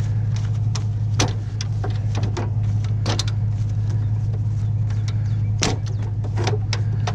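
A steady low hum runs under a string of irregular short clicks and knocks, like objects being handled and knocked about.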